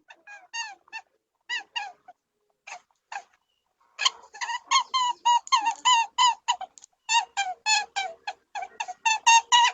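A small animal's high squeaky calls: short pitched squeaks, a few scattered at first, then a rapid run of about three to four a second from roughly four seconds in.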